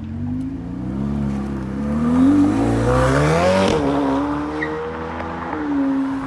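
Ferrari engine accelerating hard: the pitch climbs for about two seconds, drops sharply at an upshift about halfway through, then holds and rises again slightly near the end.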